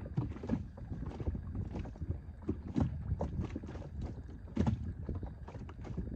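Water lapping and knocking against the hull of a small inflatable boat at anchor, in irregular soft knocks about two or three a second.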